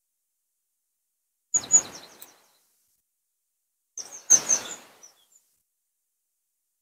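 Two short bursts of small birds chirping, about a second and a half in and again about four seconds in, with near silence between.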